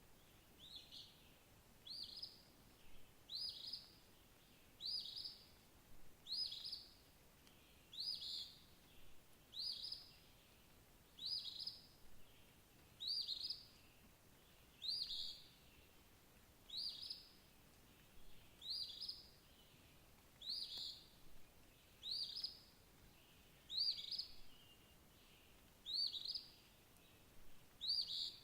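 A bird repeating the same short, high call about every two seconds, some fifteen times, over a faint steady background hiss.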